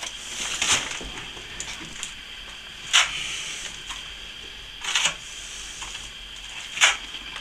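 A steel plastering trowel scraping across wet plaster in four short strokes about two seconds apart.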